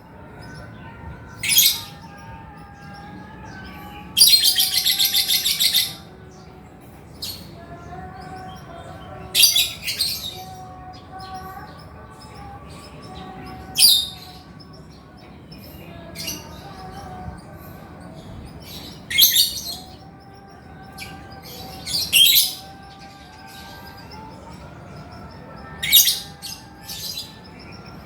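Male lovebird calling: loud, sharp, high-pitched shrieks every few seconds, with one long, fast chattering trill about four seconds in. Fainter chirping runs underneath.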